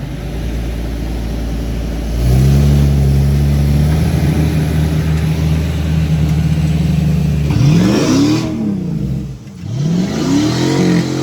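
Jeep Grand Cherokee WJ's 4.0-litre straight-six running steadily, stepping up in pitch and loudness about two seconds in, then revved twice, each rev rising and falling back.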